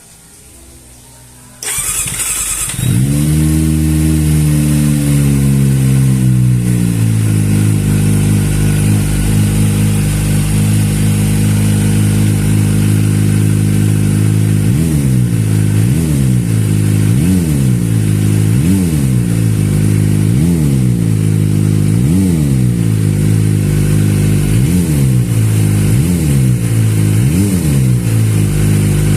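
Kawasaki Ninja ZX-25RR's 250 cc inline-four with an aftermarket racing exhaust, started about two seconds in and catching with a brief flare of revs that settles to a steady idle. From about halfway on, the throttle is blipped about once a second, the revs rising and falling over and over.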